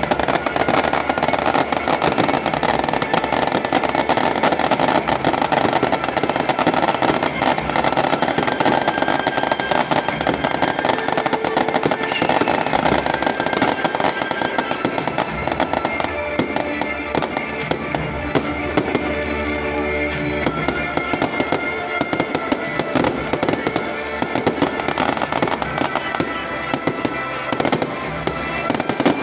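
Dense, continuous crackling and popping, with music playing over it; the musical tones stand out more clearly in the second half.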